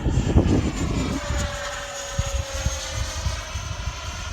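Electric ducted-fan RC model jet flying past overhead, its fan whine sliding slightly lower in pitch as it goes by, with wind rumbling on the microphone.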